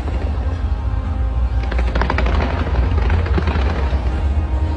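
Fireworks going off in quick succession: a continuous deep rumble of booms, with a dense run of rapid crackling reports about two seconds in.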